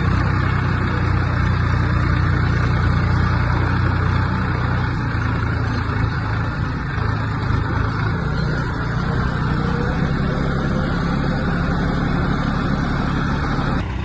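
Diesel engine of a JCB 3DX backhoe loader running steadily at a low, even speed, its pitch wavering slightly. Near the end the sound changes abruptly.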